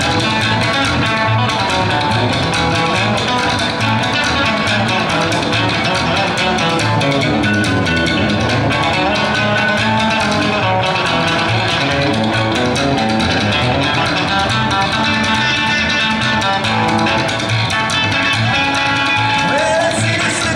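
Live band playing an instrumental break, with guitar leading over a steady bass line.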